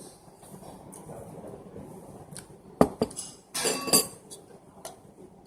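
Dishes and cutlery clinking on a plate during a meal: light taps throughout, two sharp clinks a little under three seconds in, then a brief clatter just after.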